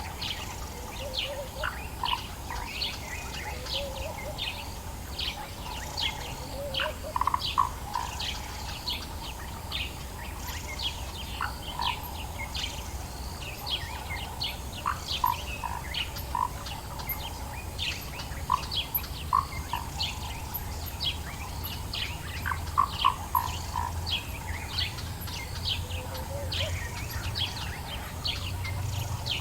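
Dawn chorus of several birds in African bush: a continuous stream of short, quick, high chirps, with lower whistled notes now and then, some in little runs of three or four, over a steady low rumble.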